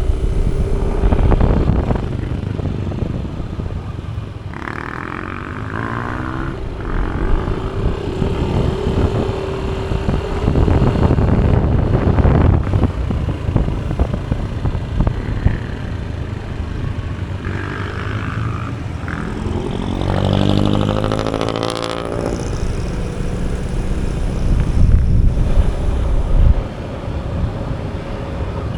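Motorcycle riding in town traffic: a steady low rumble of wind on the microphone and engine noise, with an engine note rising as it speeds up about twenty seconds in.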